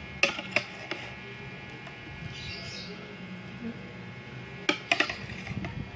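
Close-up eating sounds of someone eating champorado, a chocolate rice porridge, with crackers: a few sharp clicks and crunches, two near the start and two near the end, between quieter mouth sounds.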